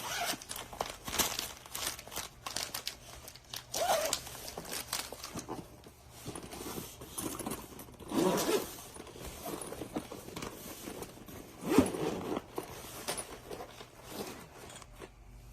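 Irregular rustling, crinkling and clicking of things being handled, with a few louder bursts spread through.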